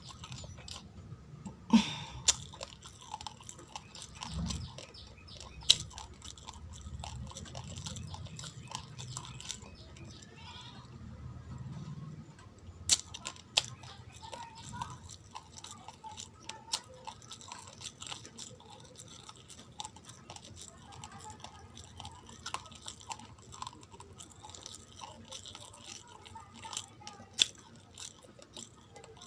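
Raw uncooked rice being chewed close to the microphone: a steady grinding chew dotted with sharp, dry crunches as the hard grains crack, a few of them much louder than the rest.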